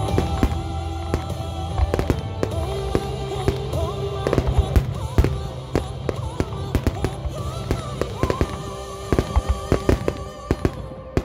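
Fireworks going off, many sharp bangs and crackles, coming thick and fast near the end. Music plays through loudspeakers underneath.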